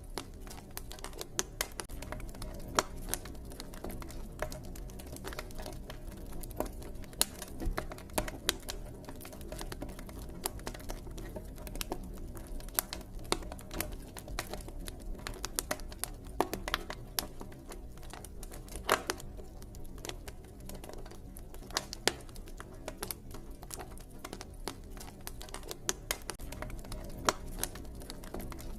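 Campfire crackling: irregular sharp pops and snaps, a few louder than the rest, over a steady low rumble of the burning fire.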